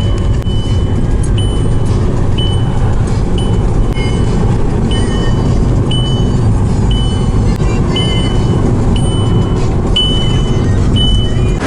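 Car driving, heard from inside the cabin: a steady low road and engine rumble, with a short high beep repeating about once a second.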